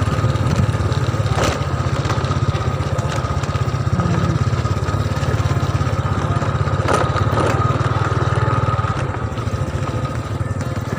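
Small motorcycle engine running steadily while the bike is ridden.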